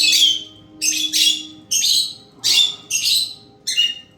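Pet lovebirds giving a series of short, shrill, harsh chirps, about two a second, with brief gaps between them.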